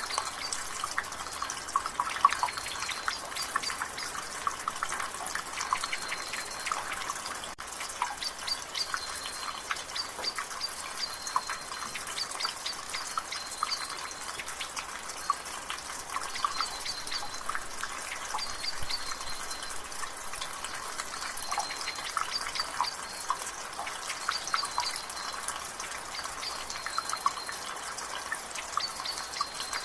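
Water dripping and splashing from a rain gutter in a steady drizzle: many irregular drips over a soft rain hiss. A bird sings a short high note again and again in the background.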